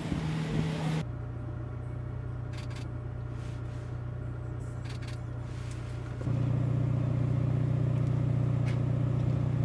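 A second of wind noise, then an abrupt cut to a steady low engine hum, which steps up louder with a fuller tone about six seconds in.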